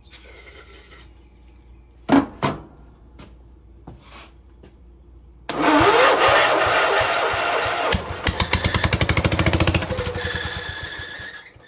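Kohler Magnum 14 single-cylinder engine being cranked by its electric starter for about six seconds, starting about halfway in, with a rising whine as it spins up and then a fast, even chugging. It does not fire because it is not drawing fuel, which the owner suspects is a failing fuel pump. Two short knocks come about two seconds in.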